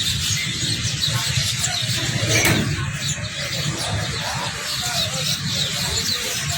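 A flock of birds chirping and chattering, many short calls overlapping, over a steady low rumble of traffic.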